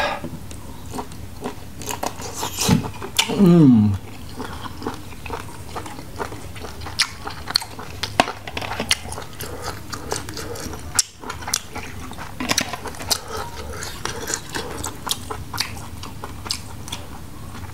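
Close-up biting and chewing of fried squid tentacle, with many small wet clicks and crunches of the mouth throughout. About three seconds in there is a brief voice sound falling in pitch, the loudest moment.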